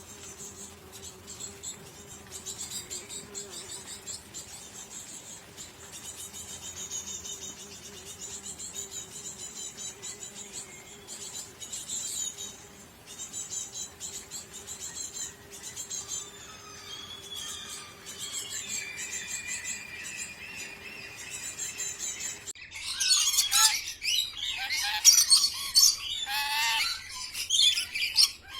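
Birds chirping and twittering, with a faint steady low hum beneath them. About three-quarters of the way through, the sound cuts abruptly to louder, busier chirping with squawks.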